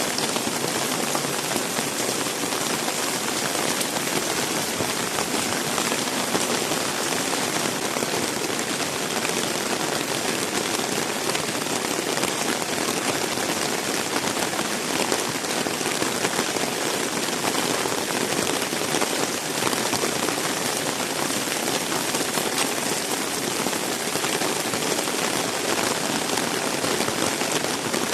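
Heavy rain falling and splattering on surfaces, a steady, unbroken hiss.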